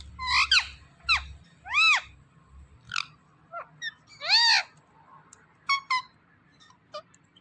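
Green pet parrot calling in a string of short, sharply falling squawks and chirps, with two longer, louder calls that rise and fall in pitch.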